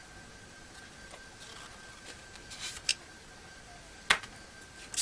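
Tarot cards being handled and laid down on a table: a soft rustle, then a few sharp card clicks in the second half.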